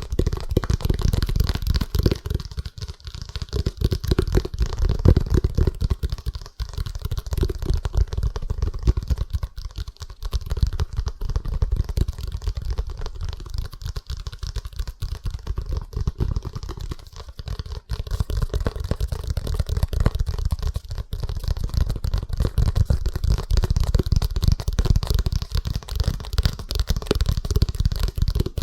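Fast, aggressive fingertip tapping on an object, a dense run of rapid strokes with a strong low thud, broken by a few brief pauses.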